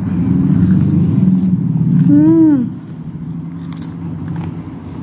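Someone biting and chewing a paratha, with short crisp clicks, and a brief hummed 'mmm' that rises and falls in pitch about two seconds in. A steady low hum runs underneath.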